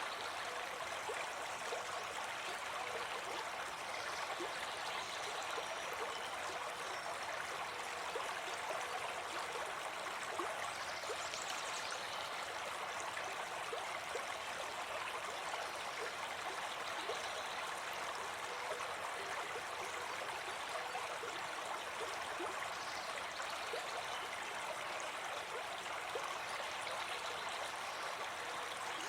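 Brook babbling and gurgling steadily over stones, an even, unbroken rush of running water.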